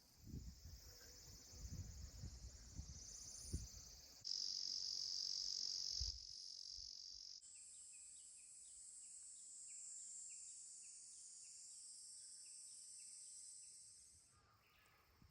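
Insects singing steadily in a faint, high-pitched drone, with a series of short repeated chirps through the middle. The insect chorus changes abruptly several times, and there are a few low thumps in the first few seconds.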